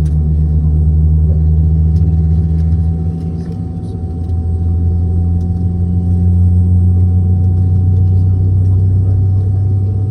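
Steady low drone inside a Boeing 717-200 cabin heard from a rear seat, with a faint steady whine above it. The tone of the drone shifts and dips briefly a few seconds in, then settles again.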